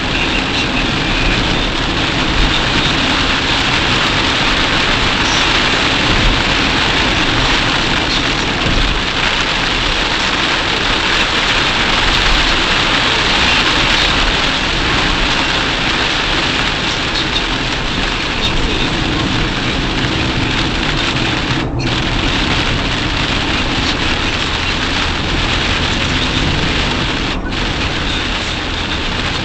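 Heavy downpour drumming on a moving car's body and windscreen, mixed with tyre spray and road noise, heard from inside the car: a loud, steady hiss.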